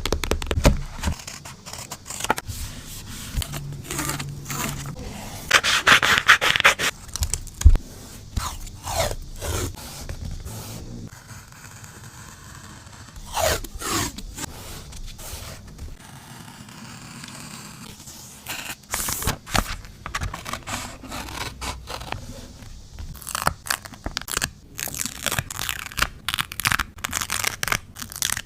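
Close-miked paper and stationery handling for an art journal: paper scraping, crinkling and tearing, with many small taps and clicks, and a louder rasping stretch about six seconds in.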